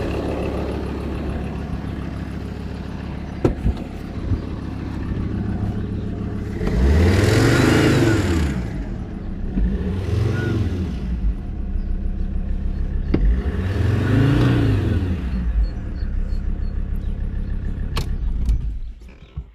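An engine idling, revved up and back down three times, the first rev the longest, then shut off near the end.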